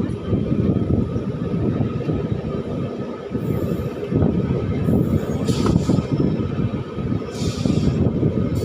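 Passenger train running along the track, heard from on board: a steady heavy rumble of wheels on rails, with a few brief higher-pitched noises.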